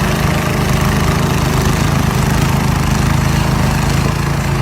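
An engine running steadily at a constant speed, with a loud hiss over it.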